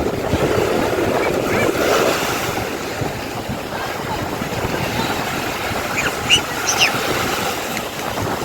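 Boat running over the sea: steady rush of engine and water with wind buffeting the microphone. A few short high squeaks come about two-thirds of the way in.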